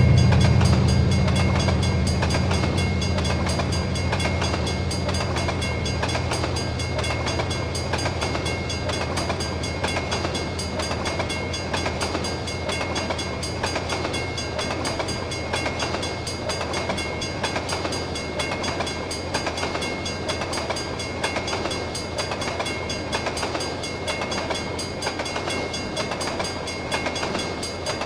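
Canadian Pacific freight train passing. The locomotives' diesel rumble fades over the first few seconds, then the freight cars roll by steadily with a rhythmic wheel clatter and a thin, steady high-pitched tone.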